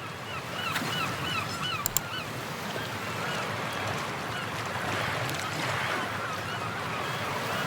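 Seaside ambience: a steady wash of surf with a bird honking in quick runs of short calls, about four a second. The calls are clearest in the first couple of seconds and fainter after that, while the surf swells toward the middle.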